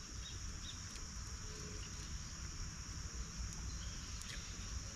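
Steady, high-pitched chorus of insects such as crickets, unbroken throughout, over a low rumble.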